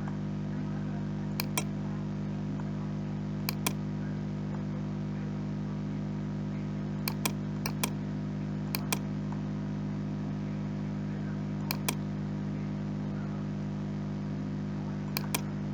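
Computer mouse clicks, about a dozen sharp clicks scattered through, several in quick double-click pairs. A steady low electrical hum runs underneath.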